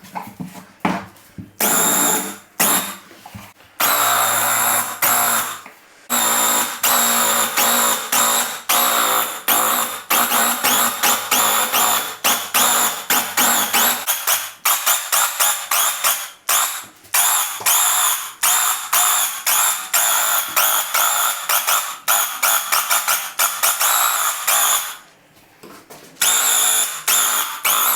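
Graco QuickShot cordless airless sprayer's pump buzzing in trigger-pulled bursts while spraying primer. The bursts run several seconds at a time at first, then come as many short, quick pulls, with a pause a little before the end.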